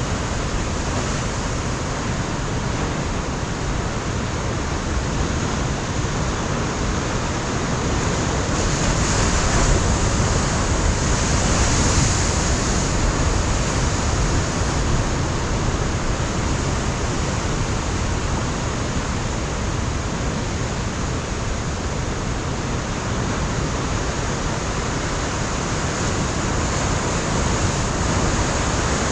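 Pacific surf washing against a rocky coastline in a steady, unbroken rush, with one wave building to a louder surge a little before the middle and then easing back.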